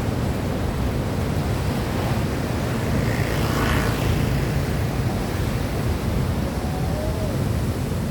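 Steady rumbling wash of ocean surf with wind buffeting the microphone.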